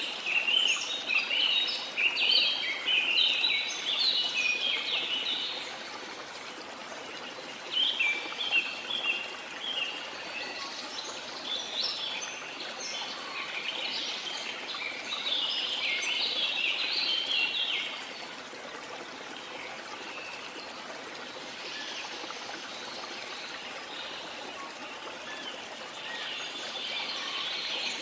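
Rainforest birds singing in busy bursts of quick, high chirps over the steady rush of a waterfall. The song fills the first few seconds, returns for about ten seconds, then thins out, with a little more near the end.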